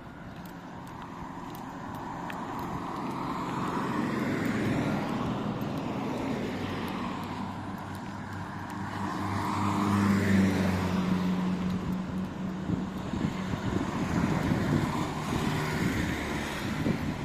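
Motor vehicles passing by on a street one after another, each swelling up and fading; the loudest, about ten seconds in, carries a low engine hum.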